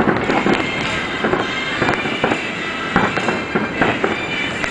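Aerial fireworks bursting in quick succession: a run of sharp bangs, one or two a second, over continuous crackling from the glittering stars.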